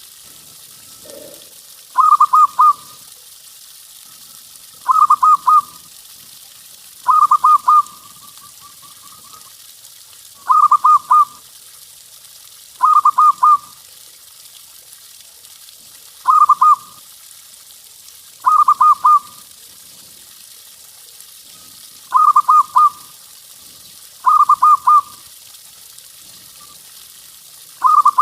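Zebra dove (perkutut) cooing: a short phrase of three or four quick notes, repeated about every two to three seconds, ten times over.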